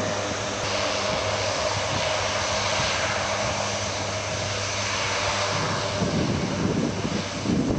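Fixed-wing military aircraft flying over, a steady engine drone with hiss and a few held low tones. About six seconds in, a gusty low rumble builds under it.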